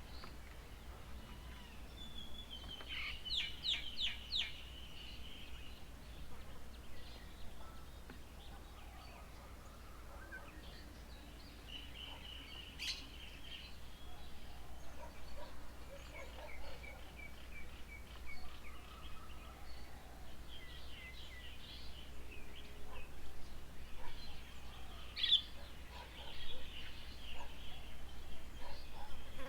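Birds calling at intervals: short bursts of high chirps and quick trills, the loudest about three seconds in, near the middle and near the end, over a low steady hum.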